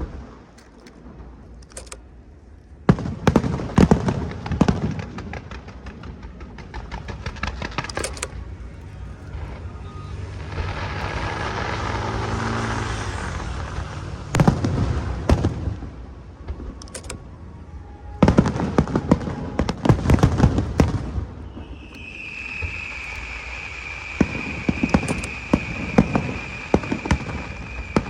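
Aerial fireworks going off in volleys of sharp bangs and crackles, with lulls between them. A steady high whistle starts about two-thirds of the way in and runs alongside the later bursts.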